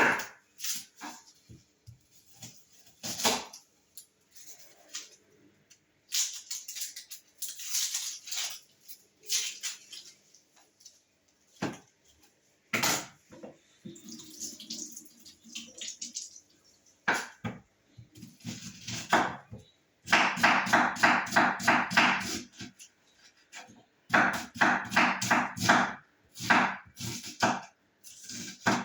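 Kitchen clatter of dishes, pots and utensils being handled, then two runs of rapid knife chopping on a cutting board in the second half, about five strokes a second.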